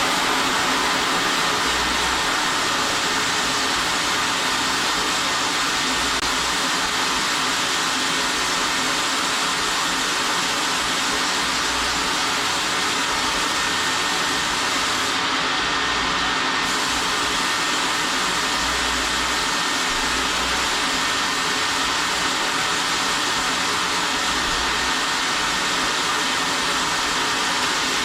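Loud, steady rushing noise of air or a machine running, holding the same level without a break.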